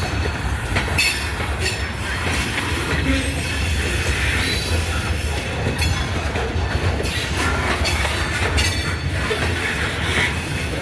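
EMD MP15 switcher locomotive's diesel engine running steadily as freight cars roll slowly, with wheel squeal and scattered metallic clanks.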